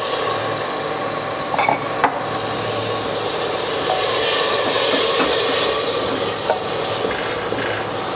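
Onion-tomato masala sizzling as it fries in oil in an aluminium pressure cooker, stirred with a wooden spoon, with a few light knocks. It is being browned down (bhuna) with a splash of water, and the sizzle swells around the middle.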